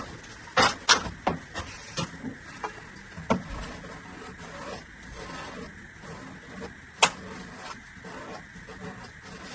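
Plastic drain pipe and fittings being handled: a quick series of light knocks and scrapes over the first few seconds, quieter rubbing after, and one sharp click about seven seconds in.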